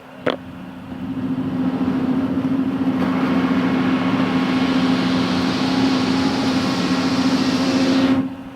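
Backhoe engine running, with a sharp click just after the start. The engine then revs up into a loud, steady working run with a rushing noise over its hum, which cuts off suddenly near the end.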